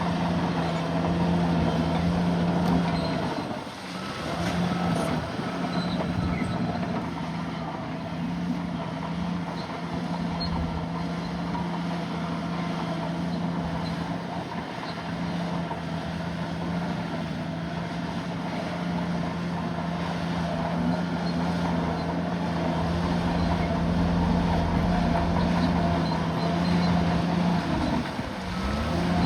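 Bulldozer's diesel engine running steadily under load, its note dropping briefly twice.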